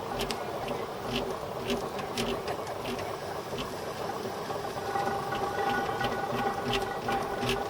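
An engine running steadily with a buzzing hum and regular low thumps, with scattered sharp clicks over it. A steadier whine joins about five seconds in.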